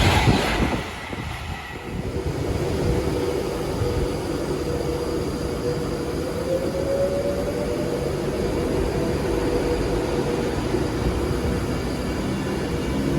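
Train on the rails: a loud passing with rapid wheel clatter dies away about a second in, then a steady rumble with a held humming tone that rises slightly midway.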